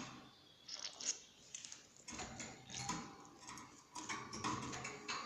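Irregular light clicks and taps of a plastic syringe and medicine bottle being handled while drawing up liquid amoxicillin suspension.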